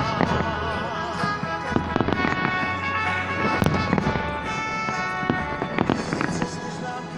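Fireworks and firecrackers going off, irregular sharp bangs coming several at a time, over pop music playing.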